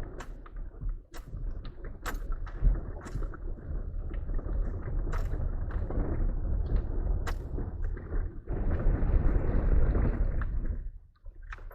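Jeep driving slowly over a rough dirt woods road: a low engine and tyre rumble with repeated knocks and rattles from the suspension and cabin. A louder rush of noise swells for a couple of seconds near the end, then drops away.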